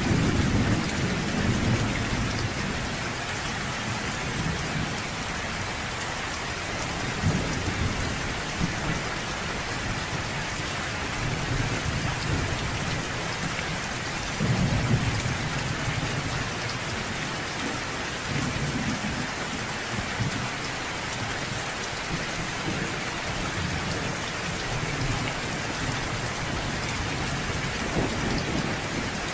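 Steady heavy rain falling on surfaces, with low rolls of distant thunder swelling and fading under it, strongest near the start and about halfway through.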